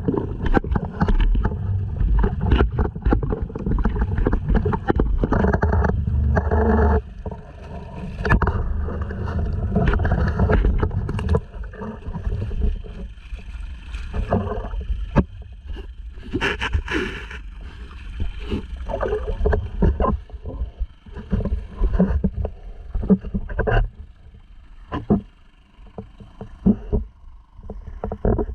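Sea kayak on choppy water: water splashing and slapping against the hull, with rumbling wind buffeting and many irregular knocks. It is loud and dense for the first seven seconds, then thins out to scattered knocks and splashes.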